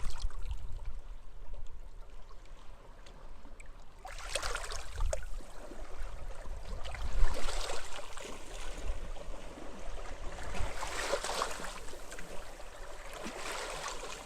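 Waves washing onto a beach, four washes a few seconds apart after a quieter first few seconds, over a steady low rumble of wind.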